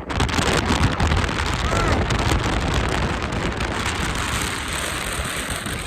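Strong wind blasting across the microphone: a dense, continuous rushing noise with heavy low buffeting.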